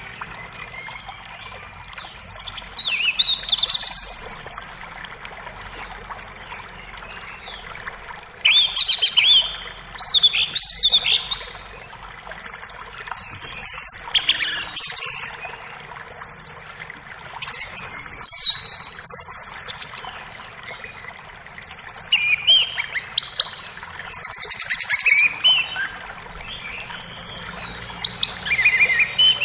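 Songbirds chirping and whistling in short, high calls, one after another, over the steady wash of a running forest creek.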